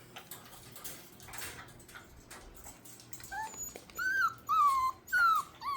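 Six-week-old puppies whining: faint scuffles, then from about three seconds in a run of about five high-pitched whimpers, each falling in pitch.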